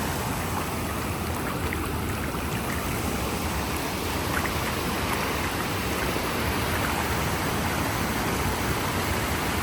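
Storm floodwater rushing steadily across a road, a continuous even wash of running water.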